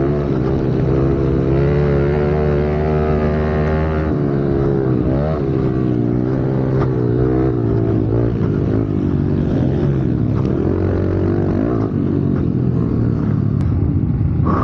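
Pit bike engine running hard on the track, holding a steady high note for about four seconds, then dropping and rising in pitch with the throttle and gear changes.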